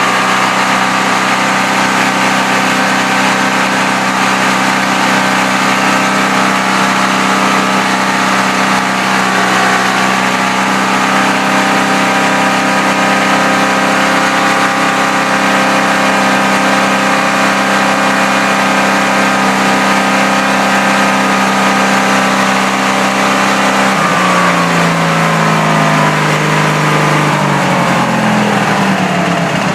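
Wheel Horse garden tractor engine running steadily just after a cold start. About 24 seconds in its pitch drops unevenly over a few seconds and settles into a slower idle.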